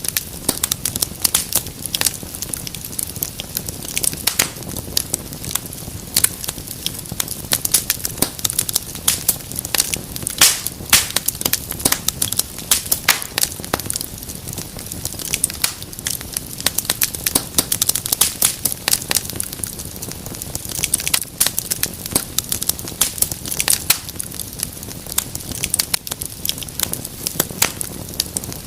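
Wood fire crackling in a fireplace: dense, irregular sharp pops and snaps over a low steady hiss.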